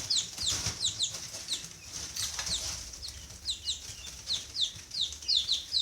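A brood of young poultry (guinea keets, chicks and peachicks) peeping, many short high falling peeps overlapping, several a second.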